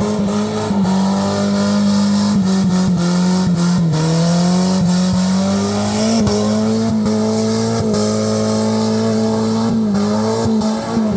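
Suzuki Escudo engine held at high, nearly steady revs during a burnout, over the hiss of spinning tyres. The revs dip briefly a few times, most deeply about four seconds in.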